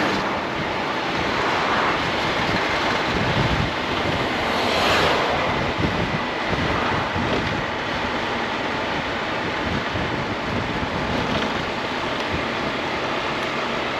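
Steady wind rush over the microphone, with the engine and road noise of a Honda ADV 350 scooter being ridden, swelling slightly a couple of times.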